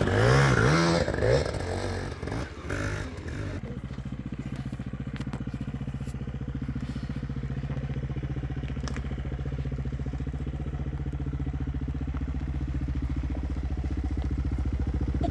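Dirt bike engine revving with rising and falling pitch, then settling about four seconds in to a steady low idle that grows slightly louder near the end.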